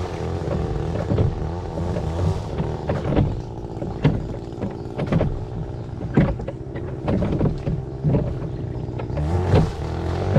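A small boat's motor running steadily with a low hum, while irregular knocks and splashes sound against the hull.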